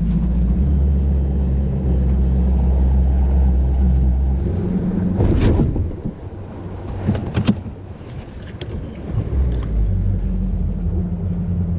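An engine idling with a steady low hum. It drops quieter about halfway through, with a few sharp knocks, then comes back up near the end.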